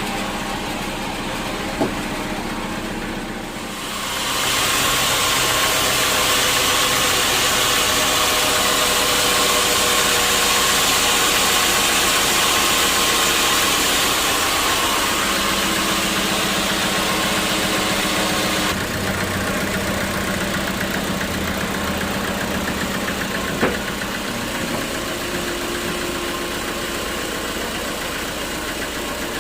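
Sawmill saw machinery running steadily; about four seconds in a louder hiss of the blade cutting through wood rises and runs on, stopping abruptly about two-thirds of the way through. A single sharp knock comes a few seconds later.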